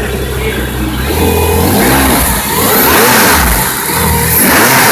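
Mercedes-Benz AMG CLK GTR's V12 engine, still warming up after a cold start, revved up about three times, its pitch rising and falling back toward idle between blips.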